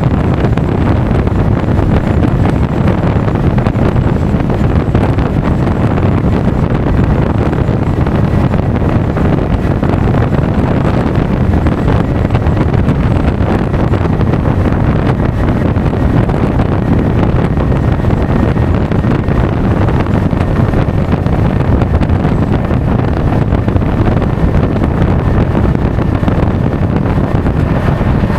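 Loud, steady wind noise rushing over an action camera's microphone while riding a Honda Forza 350 scooter at speed, with the vehicle's running noise underneath.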